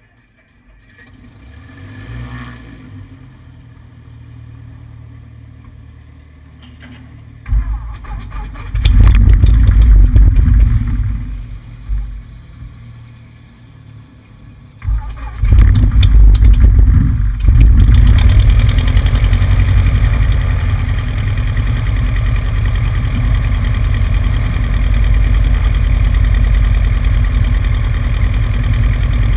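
Cessna 150's four-cylinder piston engine and propeller starting up. It catches with a sudden loud burst about seven seconds in and runs loudly, sags for a few seconds, surges again, then settles into a steady run.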